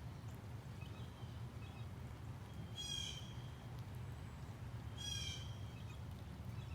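A bird gives two short, harsh calls about two seconds apart, with fainter chirps of other birds and a steady low rumble behind them.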